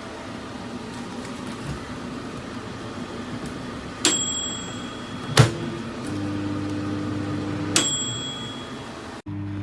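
Compact COMFEE' 700W microwave oven running with a steady hum. Its bell dings twice, about four seconds apart, with a sharp click between, and the sound cuts off suddenly just before the end.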